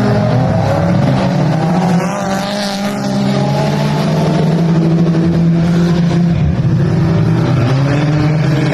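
Race car engines running hard during a dirt-track race, their pitch rising and falling as the cars go round the track.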